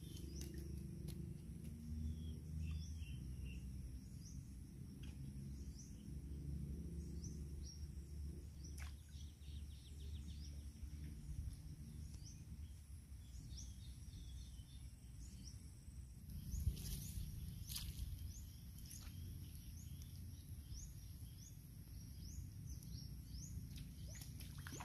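Birds chirping over and over in short rising notes, over a steady high insect drone and a low steady rumble. One brief, louder rustle or knock comes about two-thirds of the way through.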